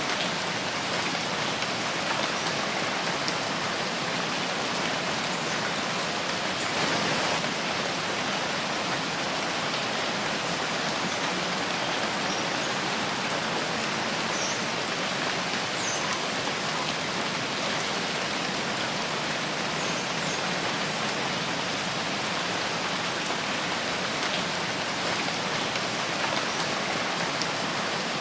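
Steady rain falling in a forest, a dense even hiss of drops on foliage and the ground, swelling briefly about a quarter of the way in.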